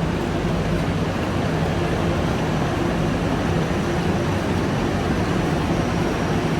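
Ouigo high-speed train standing at the station platform, giving off a steady low hum under an even rushing hiss.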